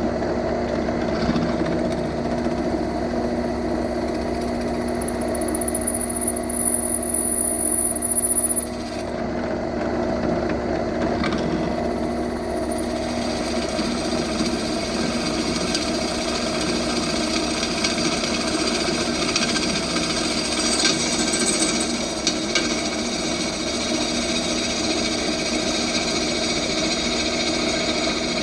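Central Machinery 5-speed benchtop drill press running steadily, its bit cutting into small steel pieces. A brighter scraping noise from the cutting joins about halfway through.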